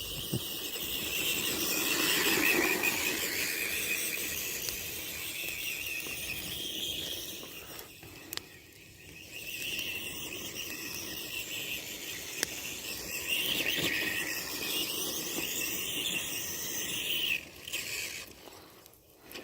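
Tamiya TXT-2 RC monster truck's twin electric motors and transmission gears whining as it drives around, the high-pitched whine rising and falling as it speeds up, slows and moves nearer and farther. The owner says the truck's transmission gears are badly worn.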